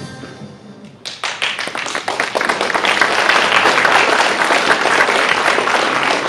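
Audience applauding, starting suddenly about a second in as the music fades out.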